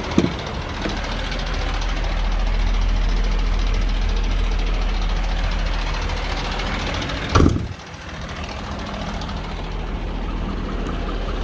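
Ford 6.7-litre Power Stroke V8 diesel idling steadily, with a short knock just after the start and a louder knock about seven seconds in.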